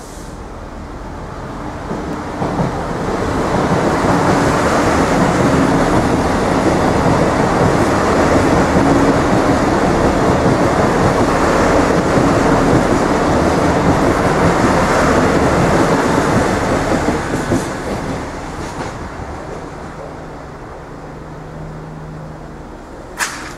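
An Irish Rail 29000 class diesel multiple-unit commuter train passing through a level crossing. It grows louder over the first few seconds, passes loudly for about twelve seconds, then fades away. A short, sharp sound comes near the end.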